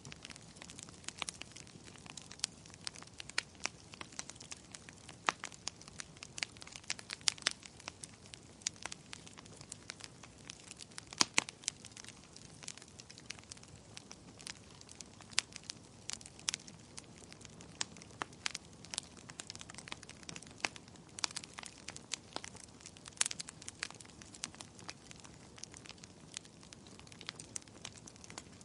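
Wood fire crackling and popping: irregular sharp snaps, several a second, some louder pops among them, over a faint low steady hiss of the flames.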